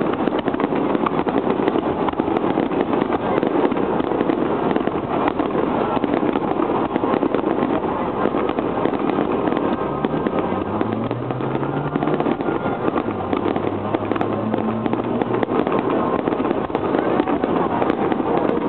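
Aerial fireworks shells bursting in quick succession at a large display: a dense, unbroken crackling and banging. About ten seconds in, a low droning tone rises and holds for about five seconds.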